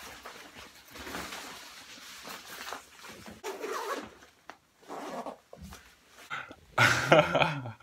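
A dog's vocal sounds, loudest near the end.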